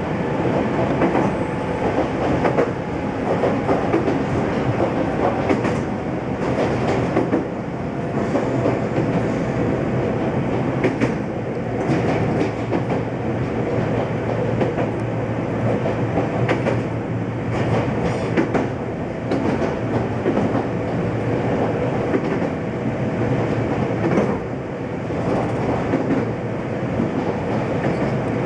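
Ohmi Railway 800 series electric train running along the line, heard from inside the front car: a steady rumble of wheels on rail, with a click now and then as the wheels cross rail joints.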